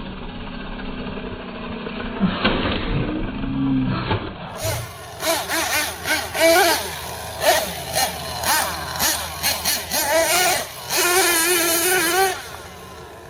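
Nitro engine of an RC monster truck, running with its pitch rising and falling. About four and a half seconds in, the sound changes abruptly to a string of short, loud, irregular throttle bursts.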